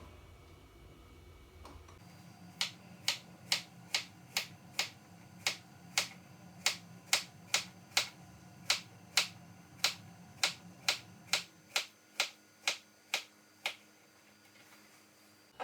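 About two dozen sharp, evenly spaced clicks, roughly two and a half a second, starting a couple of seconds in and stopping a little before the end.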